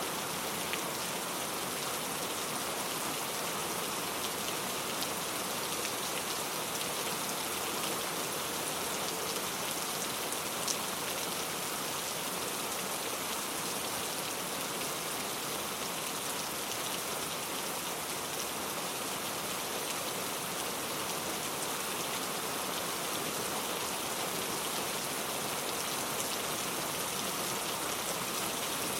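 Steady rain falling, with an even hiss and a few separate drops ticking now and then.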